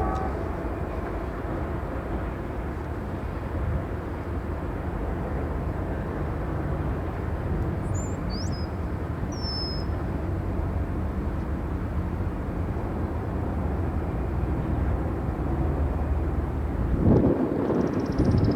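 Diesel freight locomotive running at low speed, a steady low engine drone. A few short bird chirps come midway, and a louder rush of noise starts near the end.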